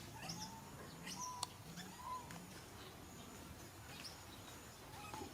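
Faint, scattered short animal chirps and brief whistle-like calls, with a few sharp clicks.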